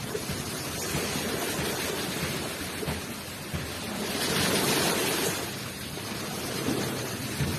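Ocean waves washing onto the shore, a steady rush of surf with one wave swelling louder about four seconds in and then ebbing.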